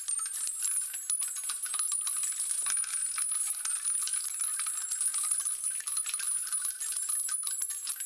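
Continuous high jingling and tinkling, a dense shimmer of many small metallic clicks like shaken bells or coins, playing as an outro sound effect.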